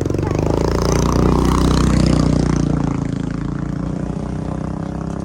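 A motor vehicle passing close by, its engine growing louder to a peak about two seconds in and then fading as it goes away.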